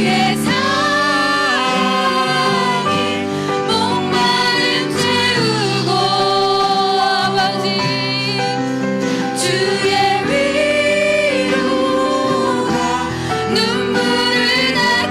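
Band playing a gospel worship song, with a singer's voice carrying the melody over sustained chords.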